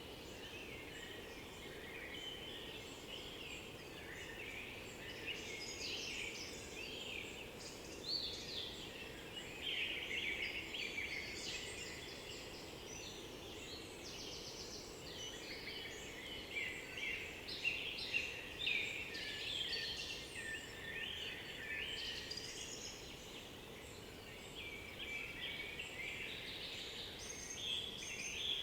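A chorus of woodland songbirds, several birds singing at once in overlapping phrases with no pause, over a steady faint background hiss.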